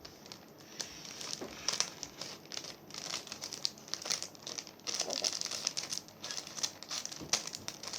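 Irregular crinkling and rustling of crinkly wrapping material being handled, with scattered sharp crackles.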